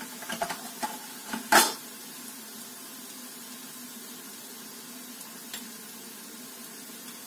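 Onion and spice masala frying in oil in a pan with a steady low sizzle, as dry spice powders are added to the browned onions. A few knocks of a utensil against the pan come in the first second and a half, the loudest about a second and a half in.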